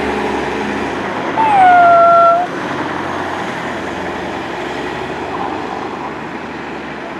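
A cat meows once, about a second and a half in: one loud call of about a second that dips slightly in pitch and then holds steady. Traffic noise runs underneath.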